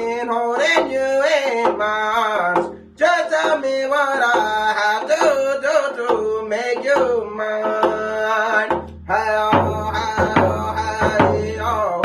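A voice singing a wavering melody over a steady low drumbeat, with a short breath-pause about three seconds in. The drum grows fuller near the end.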